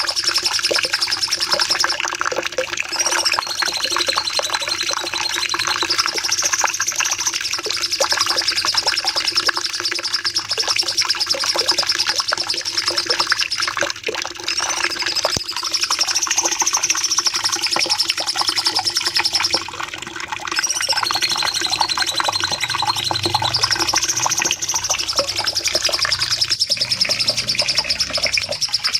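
Cucak cungkok songbird singing a long, fast, high trilled phrase, the long rapid-fire song that bird keepers call 'nembak panjang', repeated in cycles every several seconds, each ending in a short lower run of notes. A steady low hum runs underneath.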